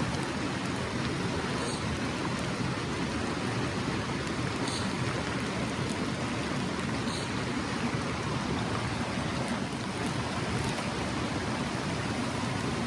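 A gorge stream rushing steadily. Three faint, short high-pitched sounds come over it, about two, five and seven seconds in.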